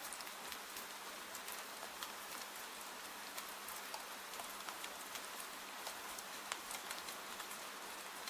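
Steady rain ambience: an even hiss of rainfall dotted with many small, sharp drop ticks.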